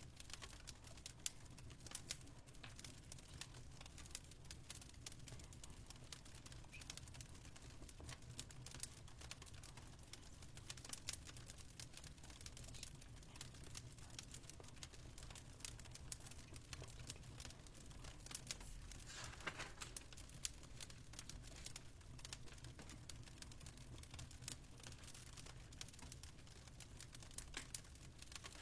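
Faint fireplace crackle: frequent small irregular pops and snaps over a low steady rumble, with a slightly longer crackle about two-thirds of the way through.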